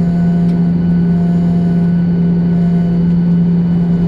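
Steady cabin drone inside a Boeing 737-800 on the ground after landing: a loud, even hum with a strong low tone and fainter higher tones over a noisy rush.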